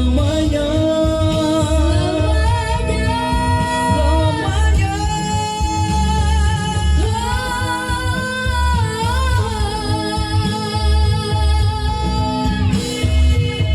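A man singing long, held, wavering notes over a band backing with guitar and a steady bass beat.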